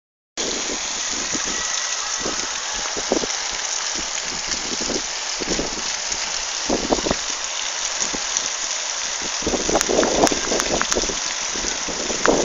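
Steady rain falling, an even hiss, with scattered short low thumps that come more often near the end.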